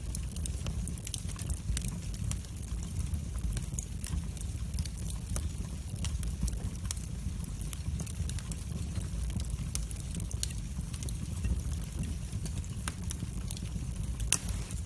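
Wood fire in a fireplace crackling: frequent small sharp pops and snaps over a steady low rumble of the flames, with one louder crack near the end.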